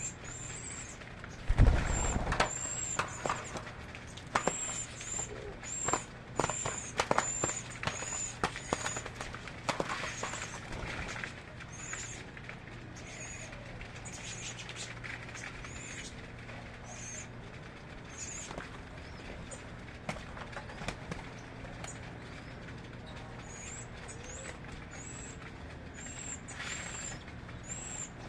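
Small birds calling with many short, high-pitched chirps repeated throughout. There is a loud thump about one and a half seconds in, then a run of sharp clicks and knocks over the next ten seconds, over a steady low hum.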